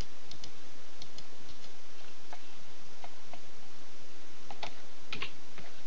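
Scattered, irregular clicks of a computer mouse and keyboard over a steady hiss.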